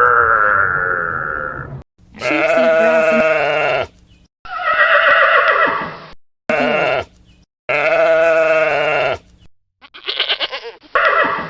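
Livestock bleating: about seven separate loud, wavering calls in a row, each one cut off sharply by edits.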